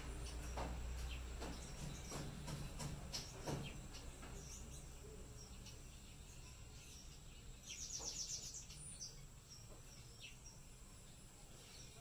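Faint outdoor ambience with scattered short bird chirps and a few soft clicks in the first few seconds, then a quick high trill of rapid ticks about eight seconds in.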